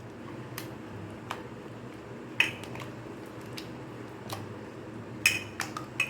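Chicken leg pieces being stirred in a thick batter-like marinade in a bowl: soft squelching with a few short clinks of the utensil against the bowl, over a low steady hum.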